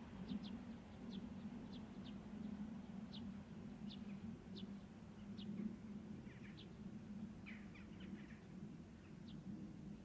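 A small bird giving short, high chirps, irregularly about once a second, over a faint, steady low hum.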